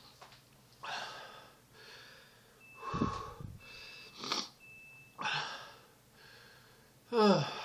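A man breathing hard and wheezing through his mouth, about six heavy breaths roughly a second apart, some with a faint whistle, as super-hot sauce with pepper extract burns his throat. Near the end he gives a short groan that falls in pitch.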